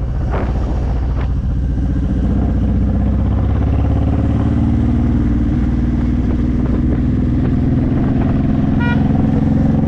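Honda VTX1800's 1800cc V-twin with aftermarket Vance & Hines pipes running under way, its pitch climbing gradually as the bike picks up speed. A brief horn toot near the end.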